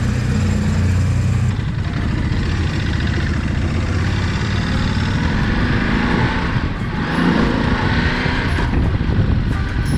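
Motorcycle engines running as the bikes pull away. About a second and a half in, the steady engine tone gives way to a thick rush of engine and wind noise as they get under way.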